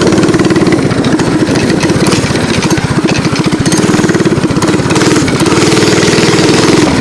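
Mini bike engine running under way on a trail ride, its speed rising and falling several times as the throttle is worked.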